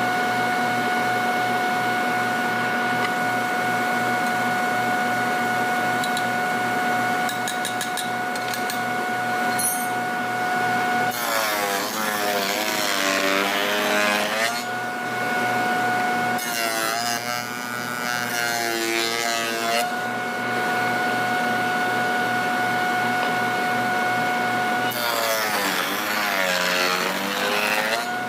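Electric woodworking power tool running with a steady whine, cutting into wood three times; during each cut the tool gets noisier and its pitch sags, then recovers.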